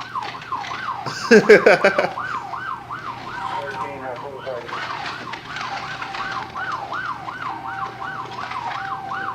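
Police car siren yelping, its pitch swinging quickly up and down about three times a second. A loud, brief burst cuts through about a second in, and a second, steadier siren tone joins partway through.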